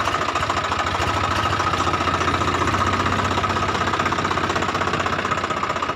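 Swaraj 744 FE tractor's three-cylinder diesel engine idling steadily, with an even, rapid firing beat.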